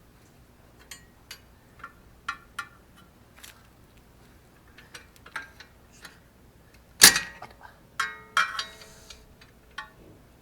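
Metal tools and parts clinking and tapping during suspension work. About seven seconds in comes one loud metallic clank that rings briefly, followed by a few more ringing clinks.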